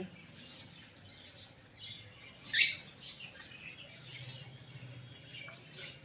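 Pet birds chirping: many short high chirps, with one loud shrill call about two and a half seconds in.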